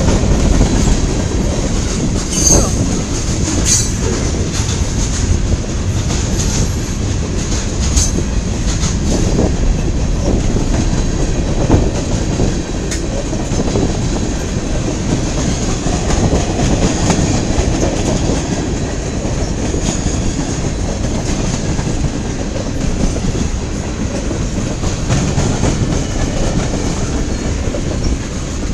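Freight cars of a long mixed-freight train rolling past, with a steady, thin high squeal of wheels on rail over the rumble and a few sharp clicks as wheels cross rail joints.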